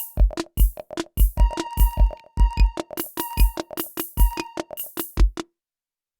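Nord Drum 3P percussion synthesizer playing a simple electronic drum pattern: deep kick thuds under quick, ringing pitched hits. The pattern cuts off about five and a half seconds in.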